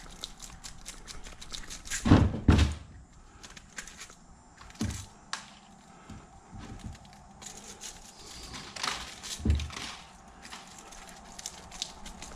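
Hand tools knocking and prying at a piece of scrap metal to break it loose. Two heavy thunks come about two seconds in, single knocks follow near the middle and later, and light clicks and clatter run between them.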